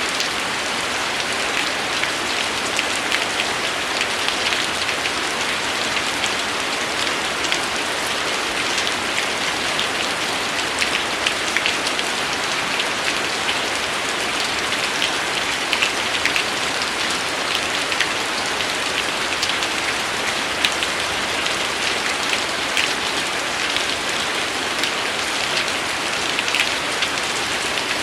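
Steady rain falling on a surface, an even hiss dotted with many small distinct drop ticks.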